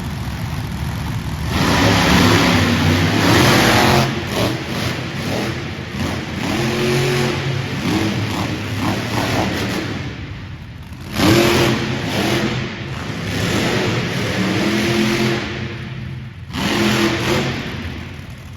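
Monster truck engines revving hard in repeated bursts, the pitch climbing and falling with each blip of the throttle. There are several surges, with a brief dip about ten seconds in.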